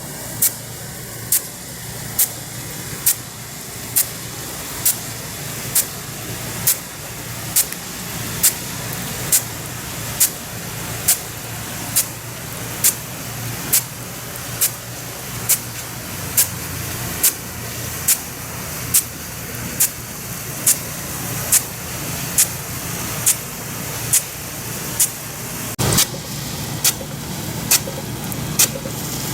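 Nelson F100 Big Gun irrigation sprinkler running at 40 PSI, 66 GPM through a 0.60-inch tapered bore nozzle: its drive arm snaps back sharply about once a second, stepping the gun round, over a steady hiss of spray and a low hum.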